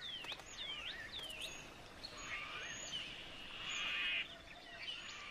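Birds calling: a run of short, high chirps that slide downward in pitch, then a longer buzzy trill starting about two seconds in.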